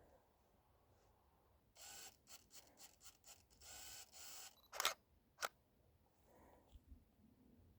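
Canon EOS 1200D DSLR shutter firing twice, about half a second apart, a few seconds in. Just before the shots there are a few seconds of rustling and small clicks from handling the camera.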